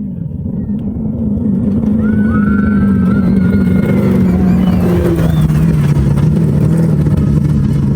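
Off-road race vehicle's engine running hard, growing louder over the first second or two, then staying loud as its pitch slowly falls.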